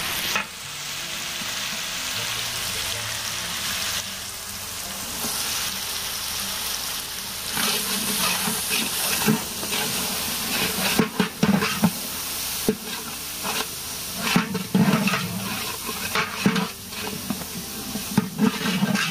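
Masala of onion, garlic and ginger with turmeric and chilli powder frying in hot mustard oil, sizzling steadily. From about halfway on, a spatula scrapes and knocks against the pan again and again as it is stirred.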